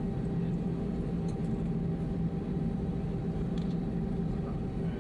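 Airbus A319 cabin noise with the engines running: a steady hum with a low drone and a few constant tones underneath.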